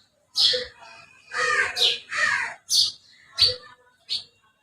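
Common tailorbird (tuntuni) calling: about seven loud, sharp, short notes at irregular spacing, each falling quickly in pitch.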